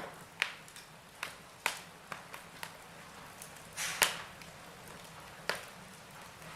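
Logs burning in a fireplace, crackling: sharp pops at irregular intervals over a soft steady hiss, the loudest pop about four seconds in.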